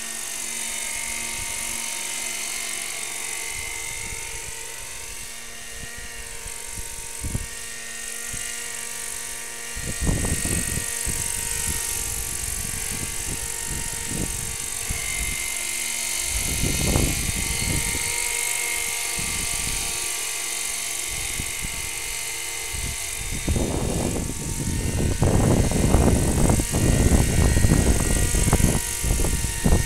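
Small engine of a radio-controlled model airplane droning in flight, a thin high whine whose pitch slowly rises and falls as the plane moves around. Bouts of low rumbling come and go, heaviest over the last several seconds.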